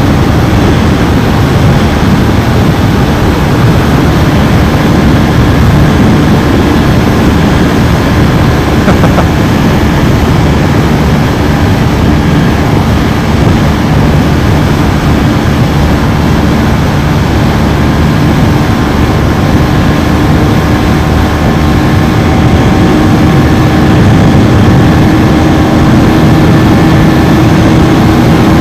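KTM Duke 390's single-cylinder engine running hard at speed, a steady note under a heavy rush of noise, its pitch edging up slightly in the last several seconds.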